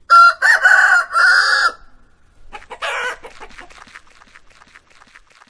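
Rooster crowing once, a loud cock-a-doodle-doo in three parts, followed by a run of short clucks that fade away.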